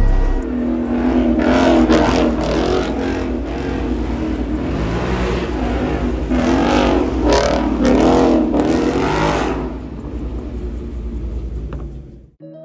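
A motor vehicle's engine being revved several times, the pitch rising and falling over a steady low exhaust rumble. The revs peak about two seconds in and again a few seconds before the end.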